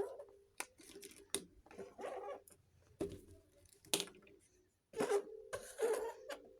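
Hands unboxing a miniature plastic toy kitchen set: irregular sharp clicks and short rustles of packaging and small pieces being handled.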